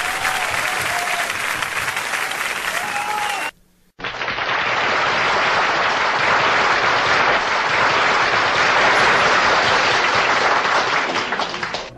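Stock sound effect of a crowd applauding, with a few cheering voices, that cuts off a little over three seconds in. After a short silent gap a second applause clip begins, denser and slightly louder, and runs on until it fades just before the end.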